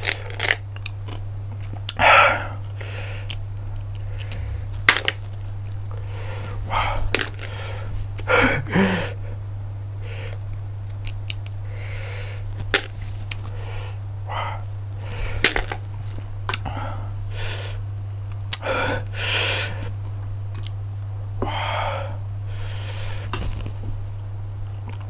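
Close-miked eating of cockles: sharp clicks of the shells, with bursts of chewing and mouth sounds scattered through. A steady low electrical hum runs underneath.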